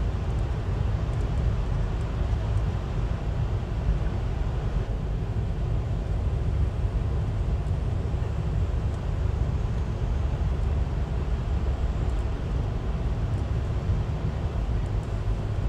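Steady low rumble of a moving passenger train heard from inside the rail car: wheels on the rails and the car running along with no distinct clicks or horn.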